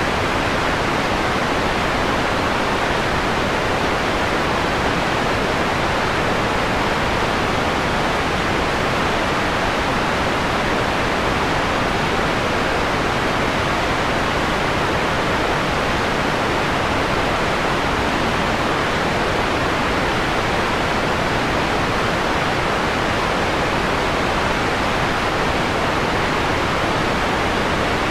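Steady synthetic filtered noise with a softened, mellow hiss: the upper treble is rolled off, so it sounds closer to pink noise than to bright white noise.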